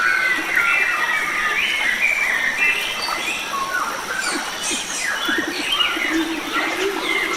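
Wild forest birds singing together: many overlapping whistled phrases and chirps from several birds at once, over a steady background hiss.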